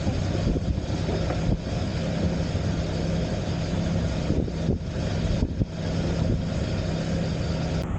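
Sailboat's motor running steadily at low speed, a constant low hum.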